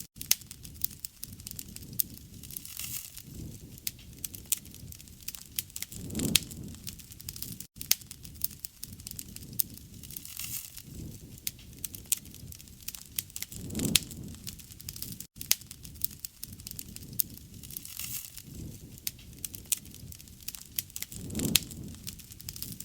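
Wood campfire crackling, with many sharp pops and snaps and a low rushing swell of flame every few seconds.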